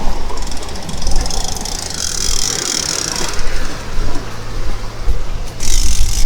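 Wind buffeting the microphone, with a low rumble and rushing, hissing water from the sea around a sailing yacht, the hiss swelling twice.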